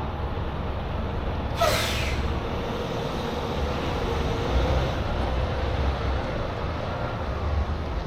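Tractor-trailer running with a steady low rumble, and a short hiss of air about one and a half seconds in.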